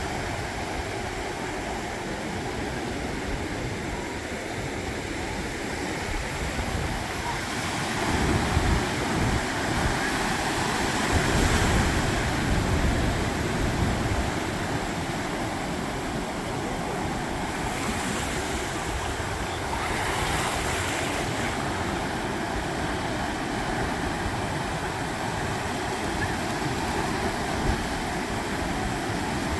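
Ocean surf breaking on a beach: a steady wash of waves that swells louder for several seconds about a third of the way in, and again briefly later.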